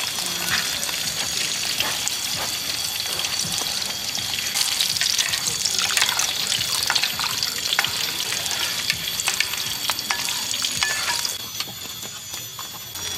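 Food sizzling as it fries in a pan, with a utensil stirring and scraping against it in frequent clicks. The sizzle drops down a couple of seconds before the end.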